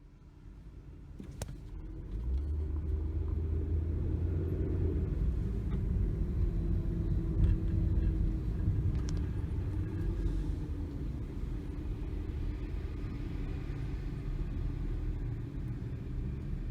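A heavy fire truck's diesel engine rumbling, growing louder over the first two seconds as the truck approaches, then running steadily, with a couple of faint clicks.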